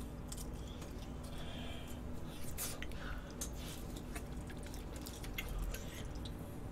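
A person chewing and biting food held in the hand, close to the microphone, with many short wet clicks and smacks.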